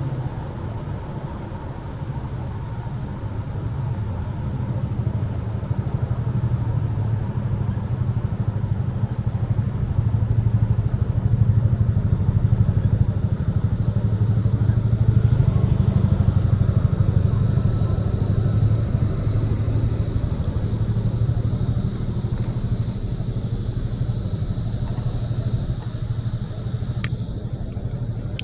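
Wind buffeting the microphone of a camera carried on a moving bicycle: a steady low rumble that grows louder partway through as the ride picks up speed, with a couple of light clicks near the end.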